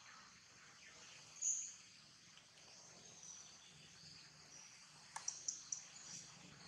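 Faint outdoor background hiss with short, high-pitched bird chirps: one about a second and a half in, then a quick run of several chirps around five seconds in.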